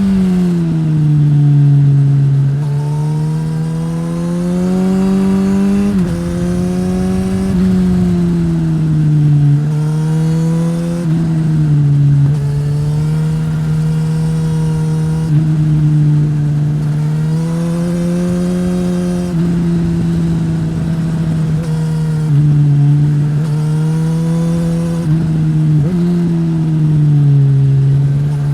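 2015 Suzuki GSX-S1000's inline-four with a Yoshimura R-11 slip-on exhaust, ridden hard through a run of bends. The engine note climbs under throttle and sags off it, with sudden jumps in pitch at each gear change.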